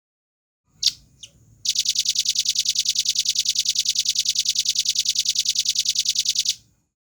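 Velvet-fronted nuthatch calling: two sharp, high notes, then a fast, even trill of about ten notes a second that runs for nearly five seconds and stops abruptly.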